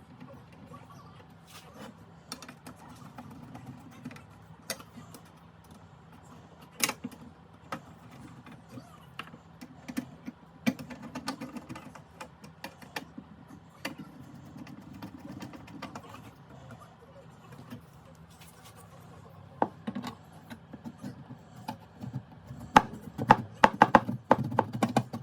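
Scattered sharp clicks and taps over a low steady hum, with a quick run of clicks near the end.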